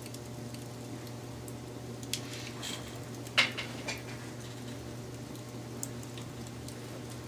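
Wood fire crackling: scattered small crackles and one sharp pop about three and a half seconds in, over a steady low hum.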